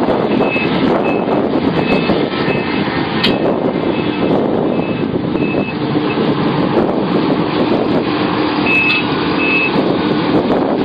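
Heavy machinery working: a large diesel engine running steadily under hydraulic load, with a backup alarm beeping about twice a second for the first few seconds, stopping, then beeping twice more near the end.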